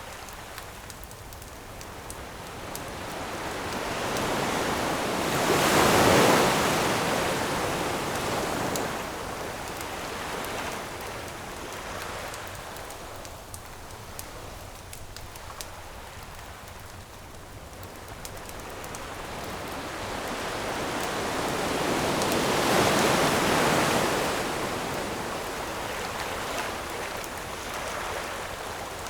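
Ocean waves breaking on a shore, two big swells that build, crash and wash back, one about six seconds in and another about twenty-three seconds in. Light crackling of a campfire runs underneath.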